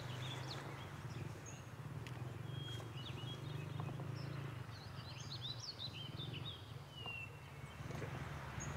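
Small birds chirping, with a cluster of quick twittering calls in the middle and one falling call near the end, over faint steady outdoor background noise.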